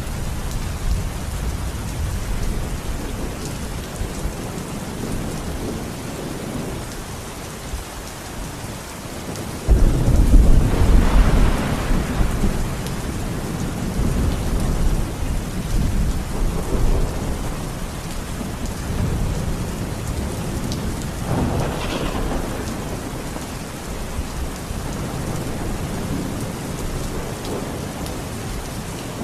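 Steady rain with rolling thunder. About a third of the way in a sudden loud thunderclap breaks and rumbles on for several seconds, and a smaller rumble of thunder follows later.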